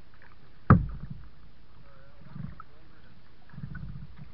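A single sharp knock about three-quarters of a second in, the loudest sound here, then soft low splashes of kayak paddling.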